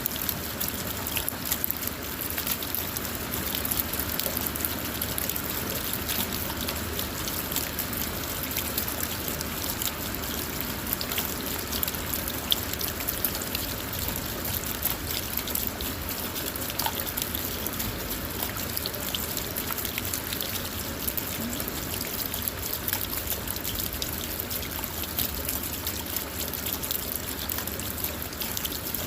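Steady rain falling on a car, heard from inside the cabin: a constant wash of water with many small drop ticks scattered through it.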